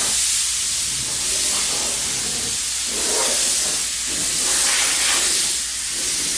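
A steady, fairly loud hiss, strongest in the high range, swelling and easing slightly.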